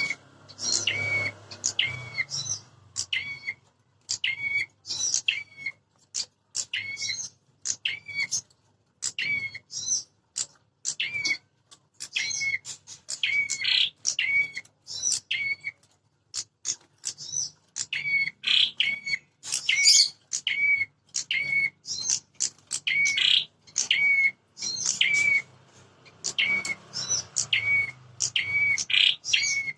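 Prenjak (prinia) birds calling: rapid bursts of short, sharp, repeated chirps, several a second, with brief pauses between the bursts. These are agitated territorial fighting calls, the kind played to provoke captive prenjak into calling and showing fight.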